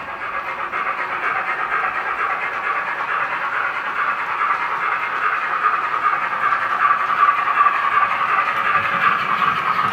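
Henning sound decoder in a Roco H0 model of a DR class 44 three-cylinder steam locomotive, playing steam exhaust chuffing in a rapid, even pulse through the model's small loudspeaker, which gives it a thin sound with little bass.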